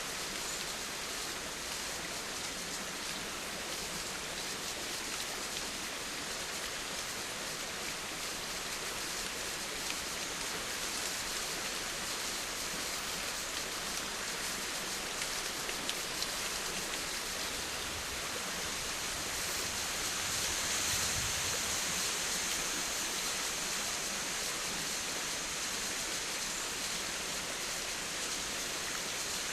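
Steady rain falling, an even hiss of drops, swelling a little louder for a few seconds about two-thirds of the way through.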